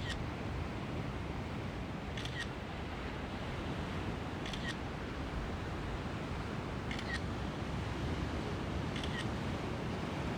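A camera shutter clicking five times, about once every two seconds, over the steady wash of sea waves.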